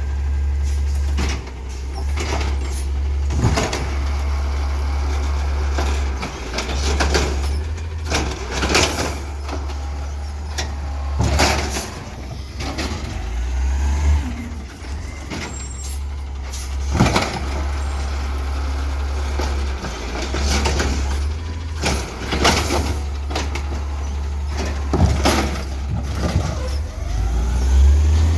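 Refuse truck running with a steady low engine drone, over it many short, sharp clanks and hisses at irregular intervals.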